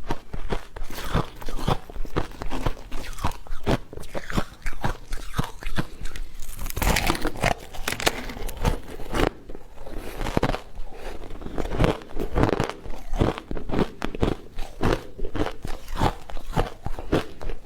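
Close-up crunching: sharp, irregular crunches several times a second, with a denser patch of crackling about seven seconds in.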